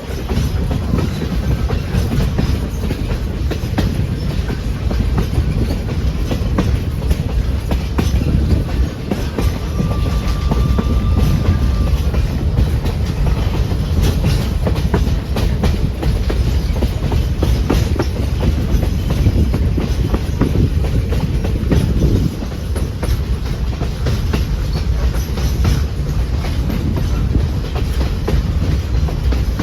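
Railroad passenger car rolling along the track, a steady low rumble with the wheels clacking over rail joints. A brief faint high tone comes about ten seconds in.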